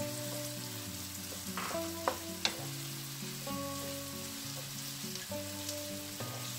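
Ground pork frying and sizzling in a hot nonstick wok while a wooden spatula breaks it up and stirs it, with a few sharp spatula knocks against the pan about two seconds in. Soft background music with held chords plays underneath.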